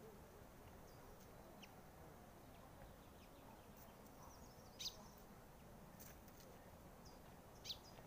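Faint outdoor background with scattered short, high bird chirps; two louder chirps stand out, about five seconds in and near the end.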